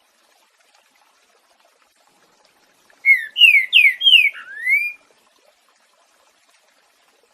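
Green-winged saltator (trinca-ferro) singing one phrase of its 'boiadeiro' song: about five loud, clear whistled notes in quick succession, each sliding down in pitch, the last one rising. The phrase starts about three seconds in and lasts about two seconds.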